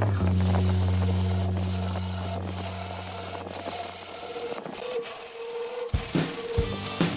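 Wood lathe turning a large hardwood blank as a hand-held gouge cuts into it: a continuous scraping, rasping cut with the machine running underneath. Regular low thumps join in near the end.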